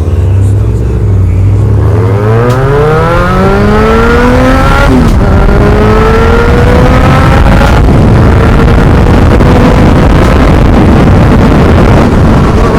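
Yamaha FZ6R's 600 cc inline-four with a Delkevic aftermarket exhaust accelerating hard: the engine pitch climbs for a few seconds, drops sharply at an upshift about five seconds in, then climbs again and holds at high revs. Heavy wind rush on the microphone runs under it.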